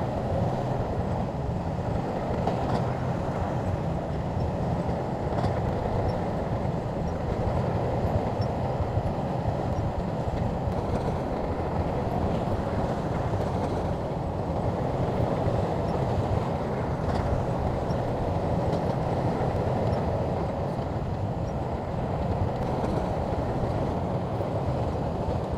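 Shantui crawler bulldozer running steadily, its diesel engine and steel tracks clattering, with a few faint metallic clinks.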